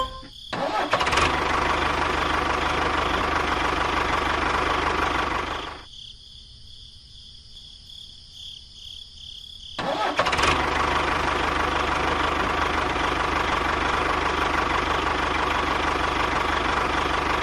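A tractor engine running steadily. It drops away for about four seconds partway through, then starts up again.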